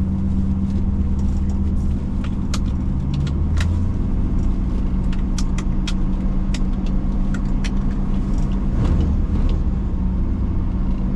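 A 1965 Ford Mustang's 289 V8 idling steadily, heard from inside the cabin, with scattered sharp clicks and ticks over it.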